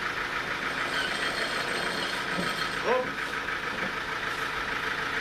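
Sawmill machinery running steadily, its engine giving an even, continuous drone.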